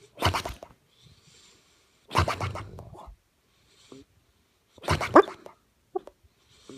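Golden retriever snoring in its sleep: three loud snores about two and a half seconds apart, each rising in pitch, with soft breaths between them.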